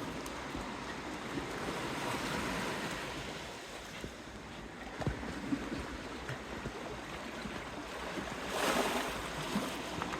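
Small sea waves washing against the bay's shore, a steady rushing that swells a couple of seconds in and again near the end.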